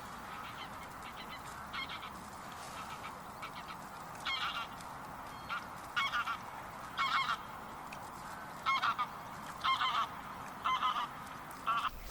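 Geese honking in short repeated calls, roughly one a second from a few seconds in, over a steady faint hiss.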